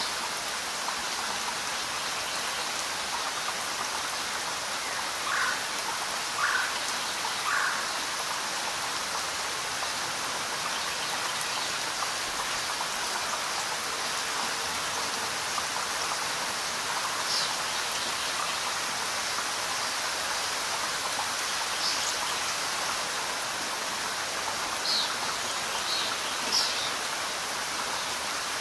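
Steady rain falling on leaves, an even hiss. A few short, higher-pitched sounds stand out: three about five to eight seconds in, and several more in the second half.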